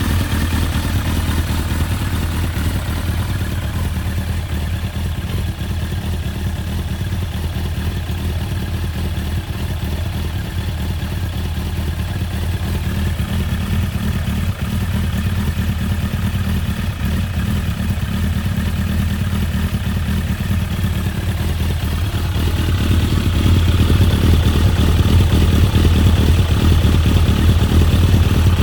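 1998 Suzuki GSX-R1100's inline-four engine running steadily through a full titanium Akrapovic 4-2-1 exhaust, getting louder near the end.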